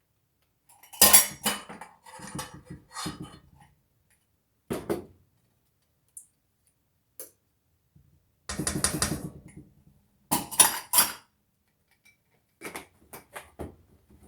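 Kitchen utensils clattering: a spoon clinking and scraping against a bowl or measuring cup in several short bursts, the loudest clinks about a second in and again around ten to eleven seconds in.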